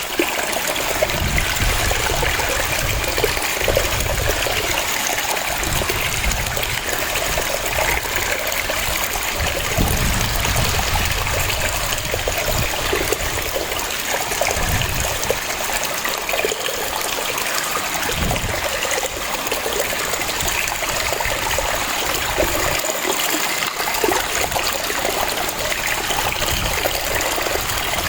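Waterfall: a steady rush of falling water, with a splashing, trickling texture and irregular low swells.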